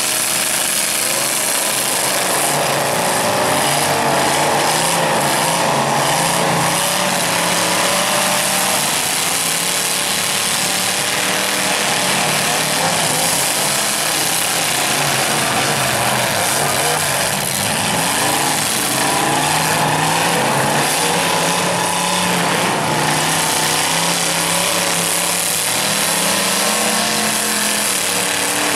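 Several demolition derby car engines running and revving at once, their pitch rising and falling as the cars push and ram.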